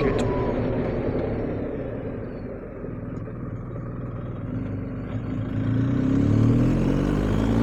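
BMW R1250GS's boxer-twin engine and wind rush while riding. The bike slows, the rush dying away, then pulls away again from about five and a half seconds in, the engine note rising as it accelerates.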